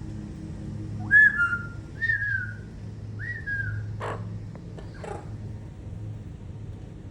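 Blue-fronted Amazon parrot whistling three short clear notes, each swooping up and then sliding down, followed by two short harsh squawks.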